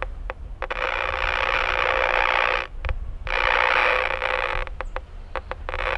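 Power line noise heard through the speaker of an RFI locating receiver tuned to 148 MHz on a 2-meter Yagi: a harsh, even buzzing static that swells in about a second in and is strongest where the beam points at the noise source. It drops out briefly near the middle, and separate crackling clicks come at the start and again shortly before the end.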